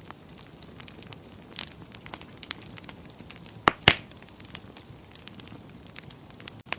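Wood fire crackling in a fireplace: scattered small crackles over a soft steady hiss, with two louder pops in quick succession a little past the middle.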